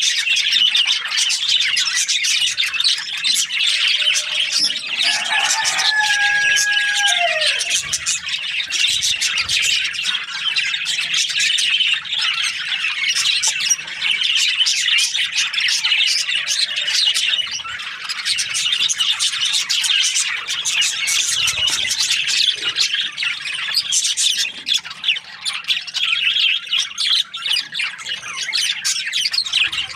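A flock of budgerigars chattering and chirping nonstop, many birds at once, with a lower drawn-out call about six seconds in.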